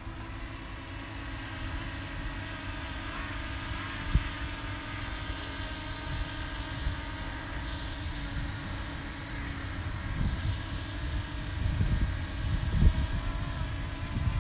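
Small quadcopter drone (DJI Mini 2) propellers whining steadily, with wind gusting against the microphone and buffeting harder near the end.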